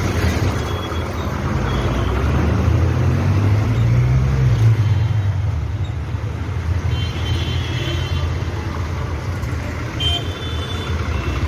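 Road traffic at a bus stand: heavy engines running with a low rumble that swells a few seconds in, and a few short horn toots later on.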